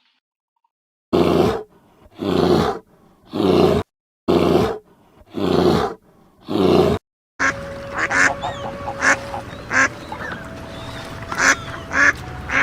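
An animal gives six loud, harsh calls, evenly spaced about a second apart. They are followed by a different recording with short bird chirps over a steady background hiss.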